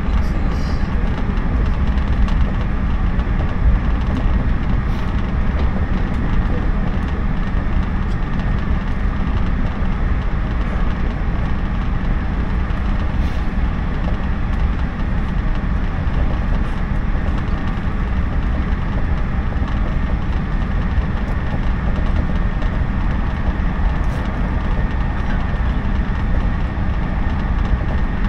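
Cabin running noise of a JNR 113 series electric train at speed: a loud, steady rumble of wheels on rail and running gear, with a few faint clicks.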